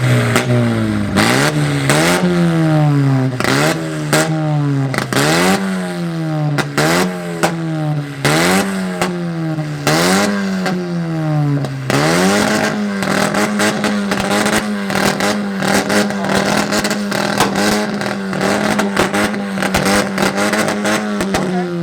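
A modified car's exhaust revved in about eight quick blips, each rising and falling with sharp pops. Then, about halfway through, the engine is held at one fixed rpm for around nine seconds with rapid popping and crackling, typical of a two-step launch limiter, before the revs drop.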